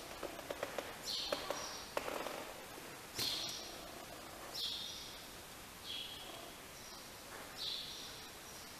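A bird chirping: five short, high calls one to two seconds apart, with a few sharp clicks and knocks in the first two seconds.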